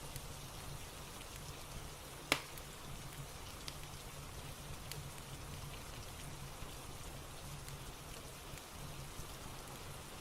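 Steady rain ambience mixed with a soft crackling fireplace: an even hiss of rain with scattered light ticks and one louder sharp crack about two seconds in, over a low steady hum.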